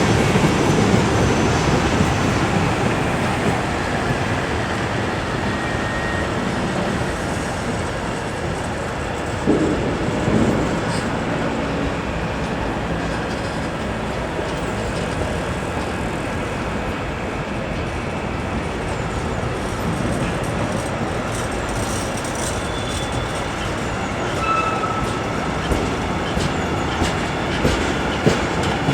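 A train rolling past, its wheels rumbling and clattering steadily on the rails. A few short, thin squeals come from the wheels, one about six seconds in and two more in the last third.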